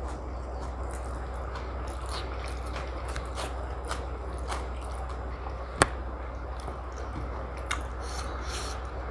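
Close-miked chewing and biting of biryani and tandoori chicken: soft, wet mouth clicks throughout, with one sharp click about six seconds in, over a steady low hum.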